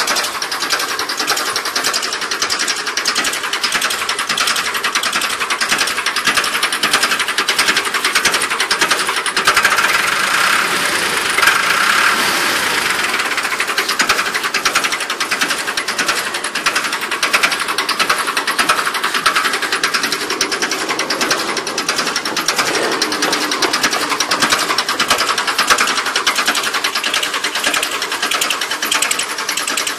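Ford 3600 tractor's three-cylinder engine idling steadily, with a fast, even clatter of firing strokes.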